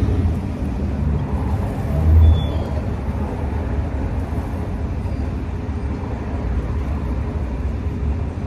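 Steady low rumble of road traffic, swelling briefly a little over two seconds in.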